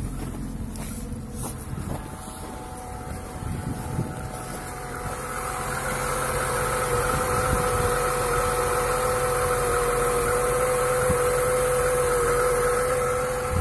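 Lada Niva 21214M's fuel-injected 1.7-litre four-cylinder engine idling steadily, with a few knocks in the first seconds. The engine grows louder about five seconds in. There is no chain rattle: with the new hydraulic timing-chain tensioner and chain guide fitted, the cold-start chain clatter is gone.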